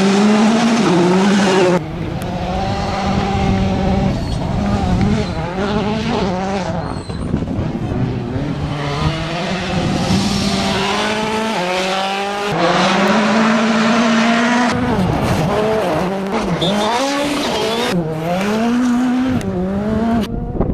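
World Rally cars' turbocharged four-cylinder engines revving hard, the pitch climbing and dropping with gear changes and lifts. The sound comes in a string of short passes cut abruptly one into the next, with some tyre noise.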